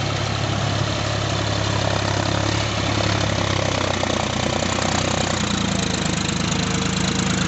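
John Deere 5045 4WD tractor's diesel engine running steadily, with a slight change in its tone about two thirds of the way through.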